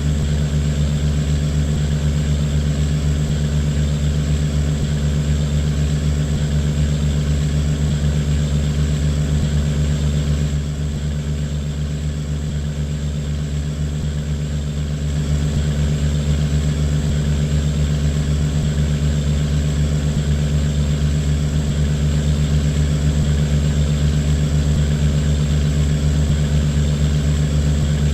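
Boat engine running steadily, a low drone that eases off a little about ten seconds in and comes back up around fifteen seconds.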